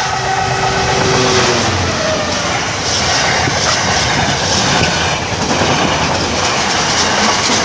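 Diesel-hauled container freight train passing close by: the locomotive goes past in the first second or so, then a loud, steady rush of wagons rolling by with the clickety-clack of wheels on the rails.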